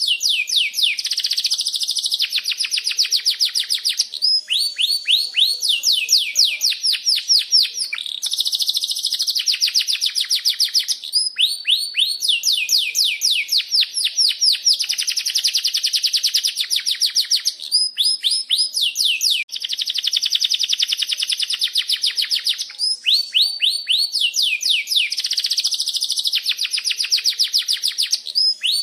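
Domestic canary singing long rolling trills: fast runs of repeated, quickly falling notes, phrase after phrase with only brief pauses between them.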